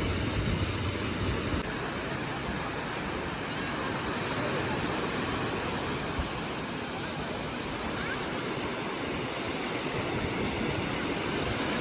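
Sea surf washing onto a sandy beach, a steady rushing noise, with a low rumble that drops away about one and a half seconds in.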